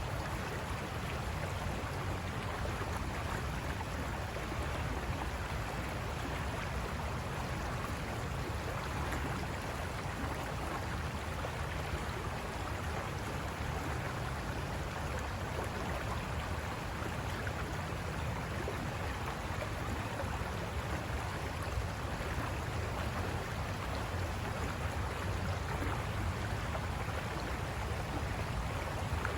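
River water rushing over rocks, a steady even rush with no breaks.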